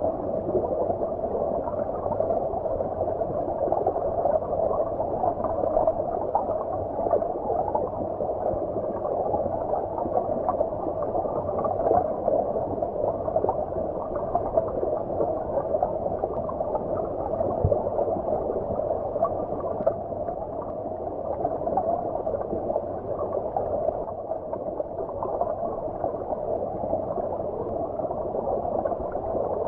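Stream water heard as if from underwater: a steady, muffled rush of flowing water with no high sounds.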